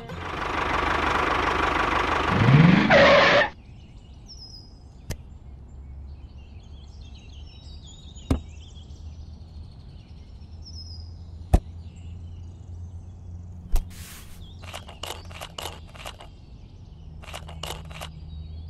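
A loud rushing noise with a short rising glide near its end, cutting off sharply after about three and a half seconds. Then quiet ambience with a low steady hum, birds chirping and a few sharp clicks, and a run of quick chirps near the end.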